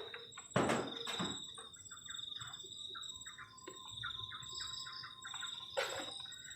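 Crickets trilling steadily at a high pitch, with a run of lower, evenly repeated chirps through the middle. A brief loud rustle or knock comes about half a second in, and another near the end.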